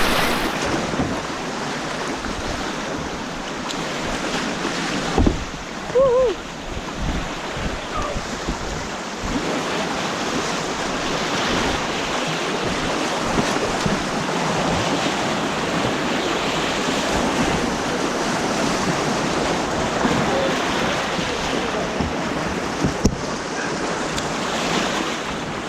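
White water on an artificial slalom course rushing and splashing around a kayak, a steady noise with some wind on the microphone. Two louder splashes or knocks come about five and six seconds in, with a brief high call just after.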